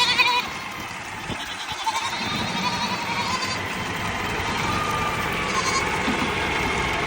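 Goats bleating several times, long wavering calls, over the steady running of a tractor engine.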